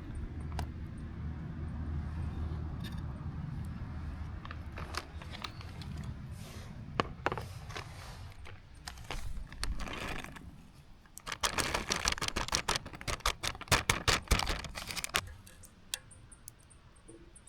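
Clinks, clatters and scrapes of small hard objects being handled, sparse at first and coming thick and fast for a few seconds past the middle, over a low rumble in the first half.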